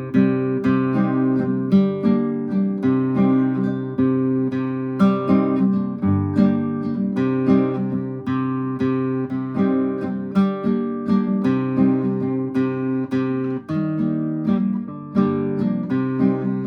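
Cordoba F7 nylon-string classical guitar strummed with the thumb, playing a steady rhythmic pattern of chords with several strokes a second.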